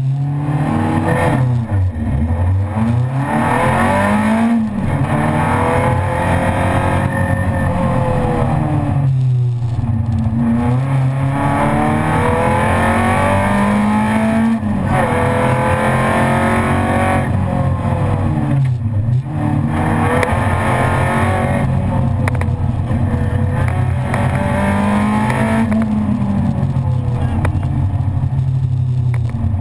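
Renault Clio Williams's 2.0-litre four-cylinder engine heard from inside the cabin, driven hard: its pitch climbs repeatedly as it accelerates and drops sharply at each gear change or lift-off, about five times.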